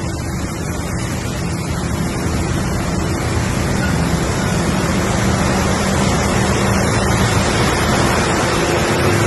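Heavy truck's engine running low under a steady rush of wind and road noise, growing gradually louder.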